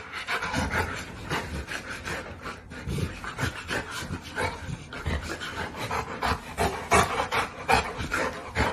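A dog making quick, irregular rasping and rubbing sounds, several strokes a second.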